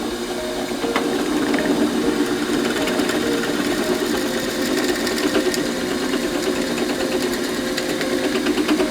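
A small motor-driven tool running steadily, with a fast, even chatter, under background music.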